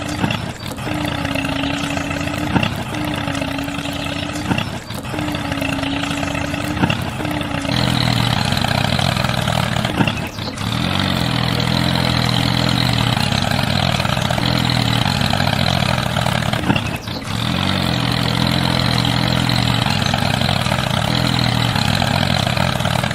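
A motor or engine running steadily. About eight seconds in it shifts to a lower, deeper running note, and it is broken by several short dropouts.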